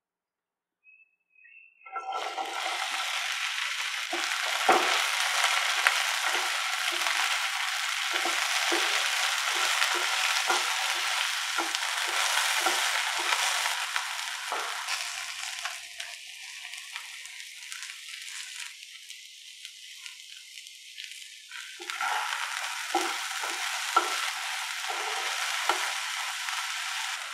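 Chopped okra frying in hot oil in a non-stick pan: a loud sizzle starts suddenly about two seconds in as the okra hits the oil, with a wooden spatula scraping and knocking as it is stirred. The sizzle eases for several seconds in the middle, then the stirring and louder sizzle return near the end.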